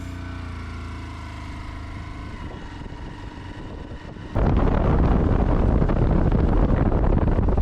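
A motor vehicle's engine running steadily. About four seconds in, a much louder low rumbling noise cuts in suddenly and covers it.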